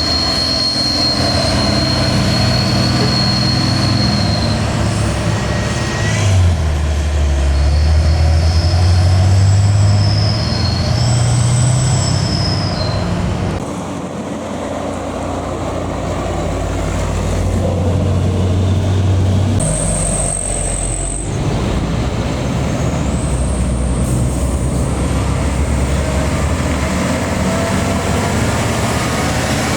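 Heavy diesel trucks labouring up a steep climb, a deep engine note that steps up in pitch about six seconds in and drops back near the middle, with thin high whines coming and going over it.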